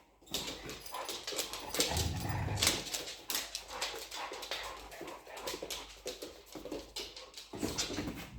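Dogs playing together, with scuffling and many quick clicks, and a short low rumble about two seconds in.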